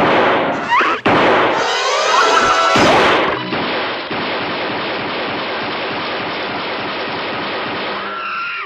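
Cartoon slapstick sound effects: a sharp impact and crash with quick rising whistles, then a steady rushing crash noise for about five seconds that stops suddenly near the end.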